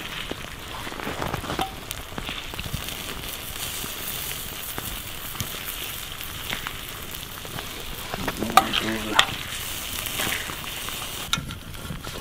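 Campfire hissing and crackling steadily with scattered pops, and two sharp snaps about eight and a half and nine seconds in.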